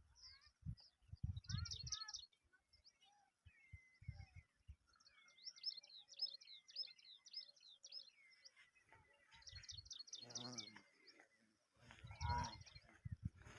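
Birds chirping and trilling in quick repeated phrases, faint. A few low thuds, and two short deeper calls near the end.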